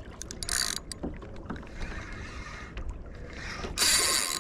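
Spinning fishing reel working under load as a hooked redfish pulls: a faint mechanical clicking and rubbing of the reel. Two short, loud rushes of noise come about half a second in and again near the end.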